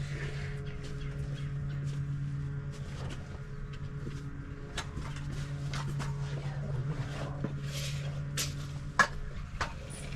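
A steady low mechanical hum runs under scattered knocks and clicks, with one sharp knock about nine seconds in.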